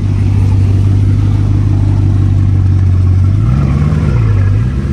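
A car engine running with a deep steady note, then revved up and back down twice in quick succession near the end.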